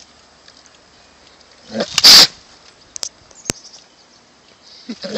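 An animal's single short, loud, breathy burst, like a sneeze or snort, about two seconds in, then a few faint clicks.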